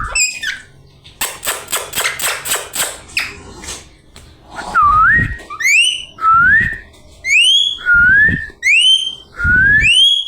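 Pet parrot whistling: a quick series of clicks, then a run of rising whistles about one a second, each ending in a short higher upward flick.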